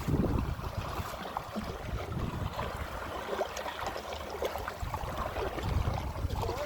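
Water splashing and trickling against a kayak as it is paddled through small waves, with low rumbling wind on the microphone.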